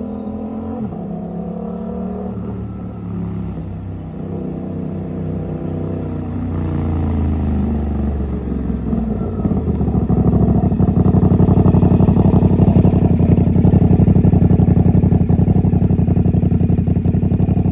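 Suzuki GSX-8R's parallel-twin engine running through a TOCE full-system exhaust with the DB killer baffle fitted. The pitch shifts in the first several seconds, then it settles into a steady, even idle that grows louder about ten seconds in.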